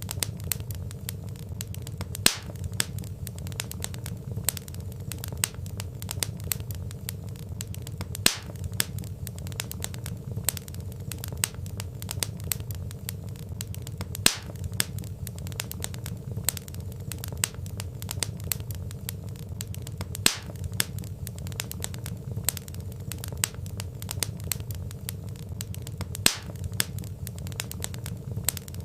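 Wood fire crackling steadily, dense small snaps and pops over a low rumble of burning logs, with a sharper, louder pop about every six seconds.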